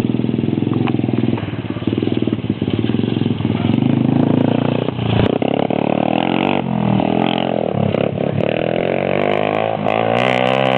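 Motorcycle engine running, its pitch rising and falling several times in the second half as the throttle is worked.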